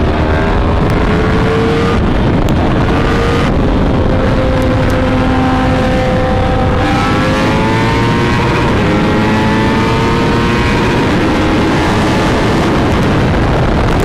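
Sport motorcycle engine pulling hard at speed, its pitch climbing and stepping down several times as it accelerates and shifts, over a heavy rush of riding wind.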